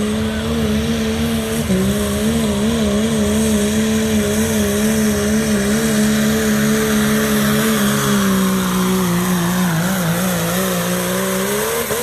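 Pulling truck's 6.7-liter Cummins turbo-diesel at full throttle under load during a pull, its note wavering unsteadily. The pitch sags a little in the last few seconds, rises briefly and cuts off at the end of the pass.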